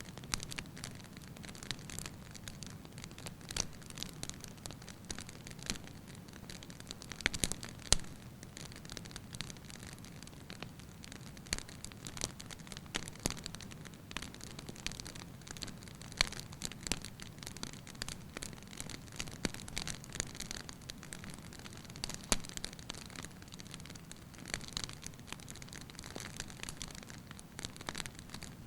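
Wood fire crackling: irregular sharp pops and snaps from the burning logs over a steady low hiss, with the loudest snaps about 7–8 s, 16 s and 22 s in.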